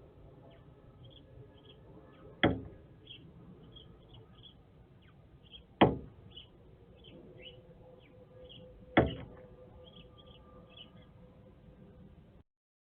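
A male northern cardinal striking the window glass: three sharp knocks about three seconds apart, with faint high chirps in between.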